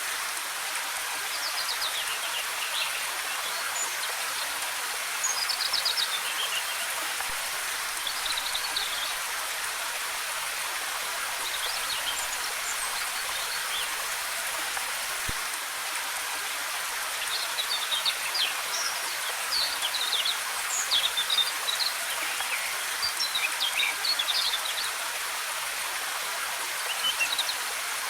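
Waterfall's steady rush of falling water, with small birds chirping in short bursts over it, more often in the second half.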